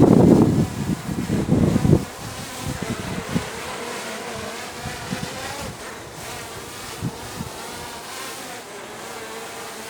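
Wind buffeting the microphone in heavy gusts for about the first two seconds, then the propellers of a hovering DJI drone humming with a wavering pitch as it holds position in strong wind.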